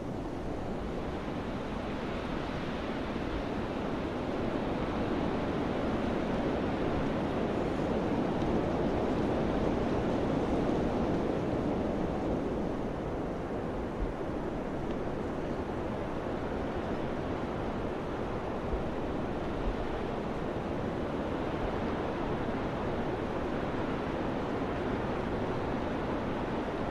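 Wind blowing steadily in a continuous rushing noise that swells about a third of the way through, then eases back.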